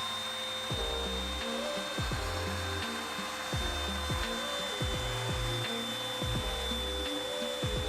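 Hinoki wood being cut or rubbed steadily at the edges of a board, over background music with a steady beat.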